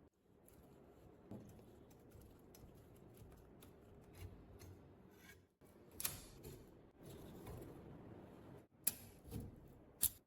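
Small metal typewriter parts being handled and worked on: light scraping with scattered clicks, and sharp clicks about six, nine and ten seconds in.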